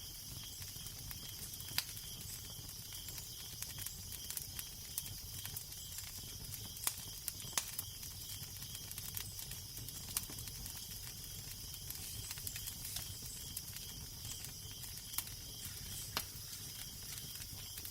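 Fire crackling: a steady hiss with frequent small pops and a few sharper snaps, over a low, steady rumble of wind.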